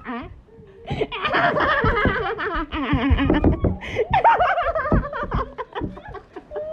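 High-pitched girls' laughter mixed with shrieks, in a long fit starting about a second in and a shorter one past the middle.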